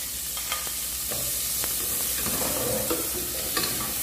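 Chopped onion frying in hot bacon fat in an aluminium pot, sizzling steadily, with a few light clicks of a metal skimmer stirring it against the pot.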